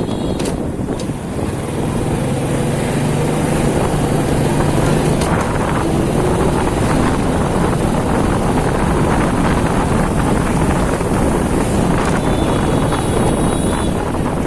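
Motorcycle riding through city traffic, its engine running under wind rushing over the microphone. A brief high tone sounds near the end.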